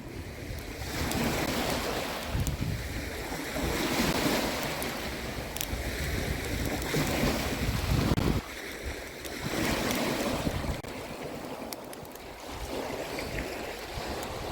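Sea waves washing on the beach with wind buffeting the microphone, the noise swelling and easing in surges. A heavy wind rumble cuts off suddenly about eight seconds in, and a few faint sharp clicks come through.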